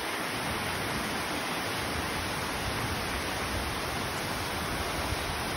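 Heavy rain pouring down in a steady, dense hiss, unchanging throughout.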